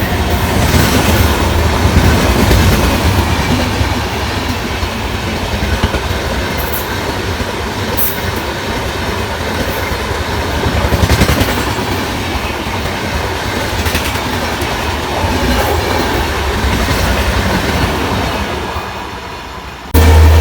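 A passenger train running past at speed, its wheels clattering over the rail joints in a loud continuous rush. The sound eases off just before the end.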